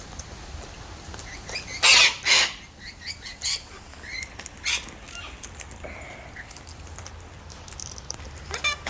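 Wild cockatoos screeching: two loud, harsh screeches about two seconds in, then scattered shorter squawks and a quick rattling call near the end.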